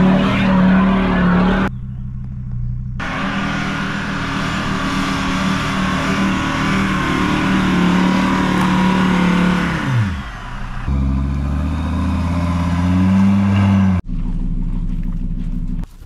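Diesel car's engine revving hard under load on a hill climb. Its revs fall sharply about ten seconds in, then build again, and the sound is broken by several abrupt cuts.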